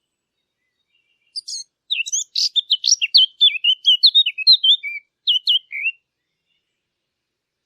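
A songbird singing one rapid, varied phrase of high chirps and slurred notes, about four and a half seconds long, starting about a second and a half in.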